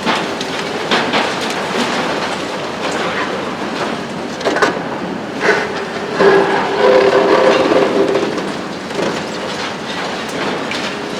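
Hitachi ZX 870-3 long-front demolition excavator at work, with continuous clattering and grinding of broken concrete and steel. A few sharp knocks come through, and a squealing tone rises about six seconds in and fades out a couple of seconds later.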